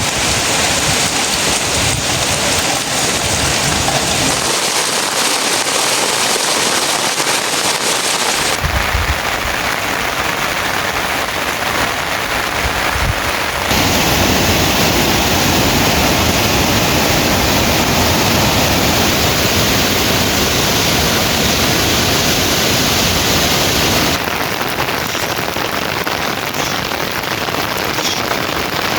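Heavy rain falling steadily. The even hiss changes abruptly in tone and loudness about 8, 14 and 24 seconds in.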